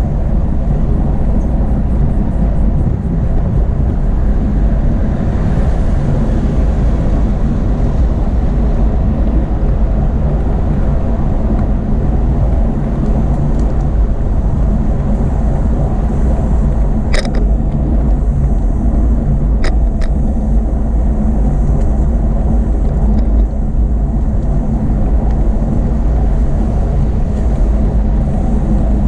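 Steady, loud low rumble of road and wind noise heard while riding a bicycle, with two sharp clicks about 17 and 20 seconds in.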